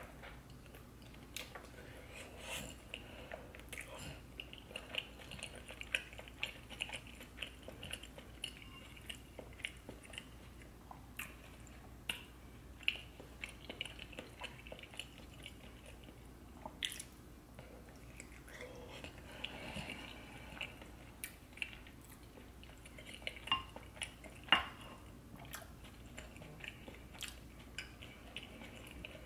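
A person chewing and biting into a seafood boil in butter sauce, with many scattered short clicks and smacks and a few louder ones about two thirds of the way through.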